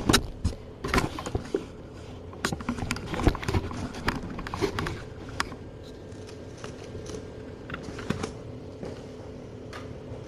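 Irregular clicks, taps and knocks of objects being handled and moved about, busier in the first half, over a faint steady hum.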